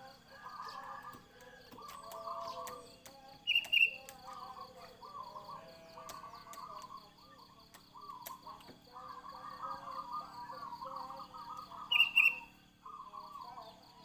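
Caged birds calling: a continuous chattering, warbling song, broken by two loud, short, high calls, about three and a half seconds in and again near the end.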